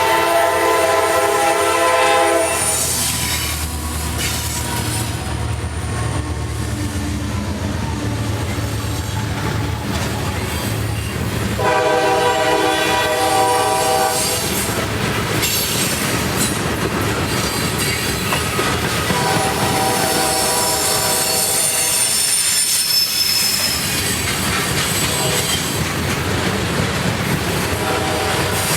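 Diesel freight train passing, its locomotive's multi-chime air horn sounding four long blasts several seconds apart over the steady rumble of the rolling train.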